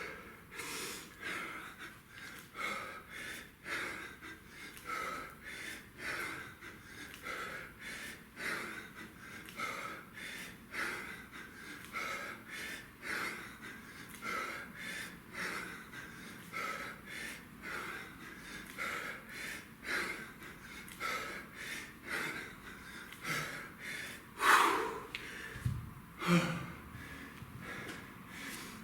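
A man breathing hard under exertion during kettlebell reps: a steady run of sharp, breathy exhales a little more than once a second. Near the end comes one louder gasp or grunt.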